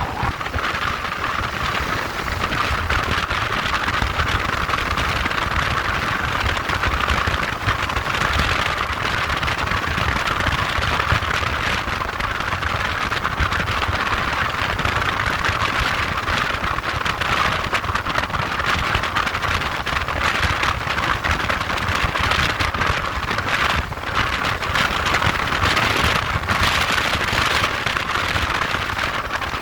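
Motorbike running steadily while being ridden: an even engine and road noise that does not change much.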